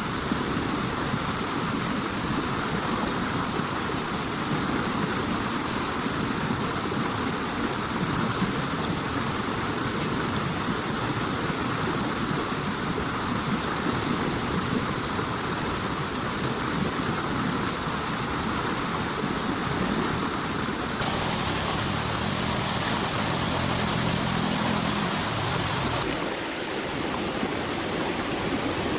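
Heavy rain falling steadily, a dense even hiss. The sound changes abruptly twice, about two-thirds of the way through and again a few seconds later.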